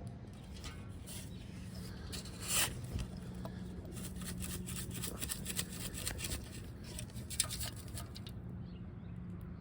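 Hand digging and sifting in playground ground for a metal detector target: a run of short scrapes and clicks, densest in the second half, over a steady low hum.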